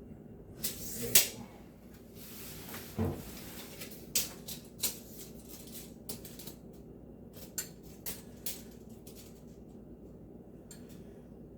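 Scattered knocks, clicks and light clatter of hand tools being handled against wood, the loudest knock about a second in, with smaller taps every second or so after.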